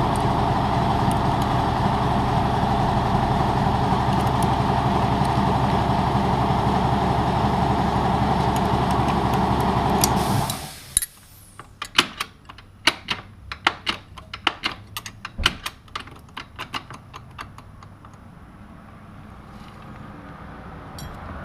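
An air compressor runs steadily and shuts off suddenly about halfway through. After it stops come many short metallic clicks and clinks of small hand tools and hardware being handled.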